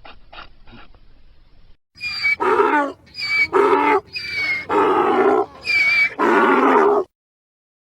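Donkey braying: a faint tail of rapid pulses, then a loud run of about six alternating hee-haw strokes that stops abruptly.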